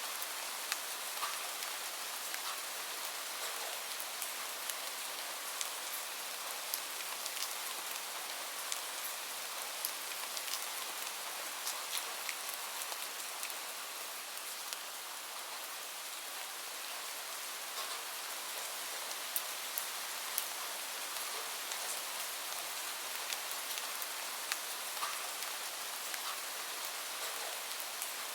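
Steady rain falling, an even hiss with many single drop hits ticking out of it.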